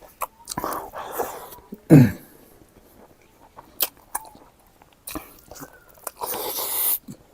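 Close-miked mukbang eating: biting and wet chewing with sharp mouth clicks. A short, loud, low falling sound comes about two seconds in, and a longer noisy stretch that grows louder comes near the end.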